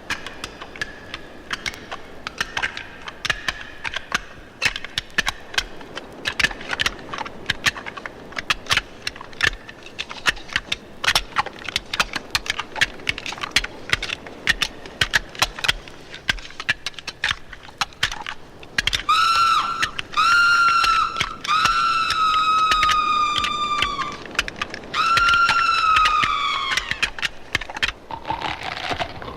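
Sound-effects giant crab: a long run of irregular sharp clicks and cracks, then four shrill screeching cries of about a second each, the last sliding down in pitch.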